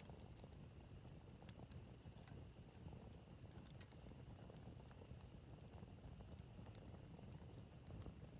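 Faint campfire crackle: wood burning with scattered sharp pops and ticks, irregularly spaced, over a low rumble.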